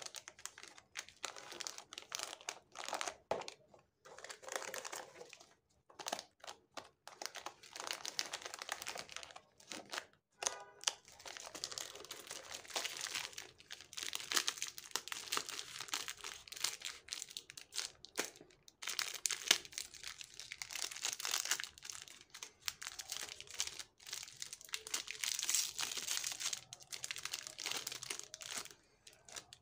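Crinkly packaging rustling as it is handled, in irregular bursts.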